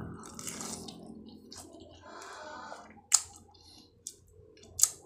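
A person chewing a big mouthful of noodles, with wet mouth sounds and a few sharp clicks, the loudest about three seconds in and near the end.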